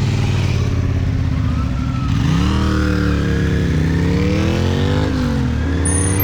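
Honda CB650R's inline-four engine at steady revs, then accelerating about two seconds in: the pitch climbs, dips briefly, climbs again and drops back near the end.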